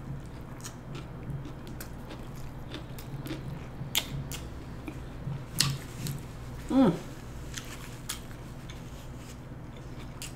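Close-up chewing of a mouthful of plant-based burger, with sharp wet mouth clicks about four and five and a half seconds in. A short hummed 'mm' comes about seven seconds in.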